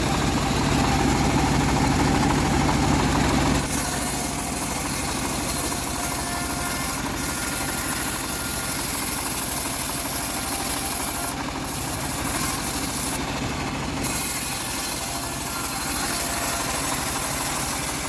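A homemade bandsaw sawmill runs steadily on its engine. Its sound drops a little and changes about four seconds in.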